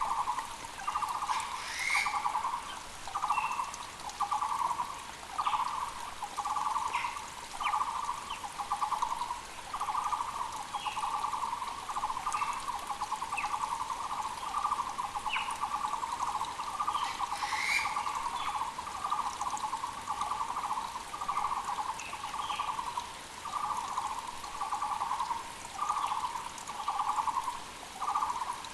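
Taiwan barbet (Muller's barbet) calling a long, steady series of repeated low notes, a little more than one a second. Short, higher chirps from other birds come in now and then over a faint, steady creek hiss.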